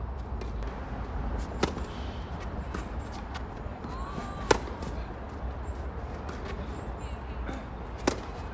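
Tennis ball struck by racket: three sharp pops a few seconds apart, the loudest in the middle, over a steady low rumble.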